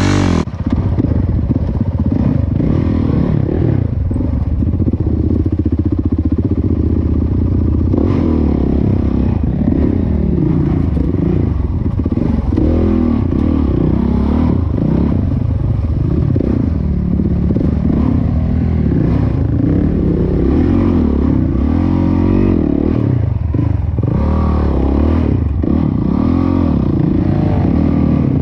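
Dirt bike engine running while being ridden, its pitch rising and falling again and again as the throttle opens and closes.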